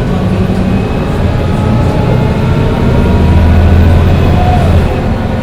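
Interior of a Mercedes-Benz O405 N1 low-floor city bus on the move: the engine drones steadily over the road noise. About three seconds in it swells louder for under two seconds, then drops back suddenly near the end.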